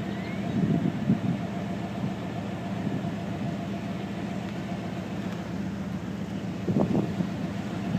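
Steady low hum with a constant background rush, like a vehicle engine idling, with faint indistinct voices about half a second in and again near the end.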